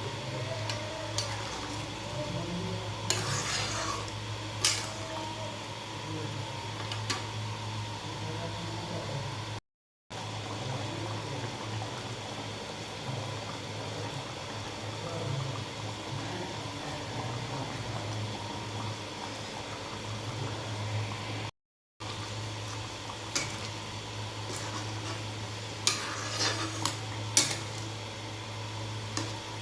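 Kitchen cooking sounds: a metal spoon scraping and clinking against a pan of curry as it is stirred, with a few sharp clinks, over a steady low hum. The audio drops out briefly twice.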